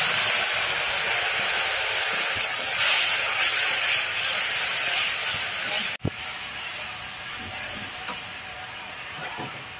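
Curry ingredients tipped into hot oil in a wok sizzle loudly as they are sautéed and stirred. About six seconds in, the sizzle drops abruptly and carries on more quietly.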